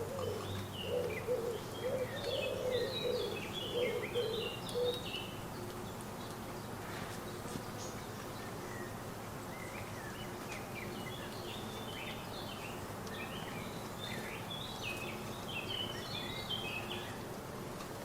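A pigeon coos in low, rolling phrases during the first five seconds. Over it a small songbird sings a rapid jumble of high notes, in two bouts with a pause in the middle.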